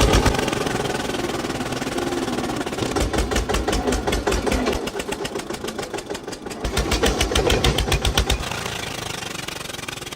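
Fiat tractor's diesel engine running with an even, rhythmic chugging. It grows louder and deeper in two stretches, about three seconds in and again near seven seconds.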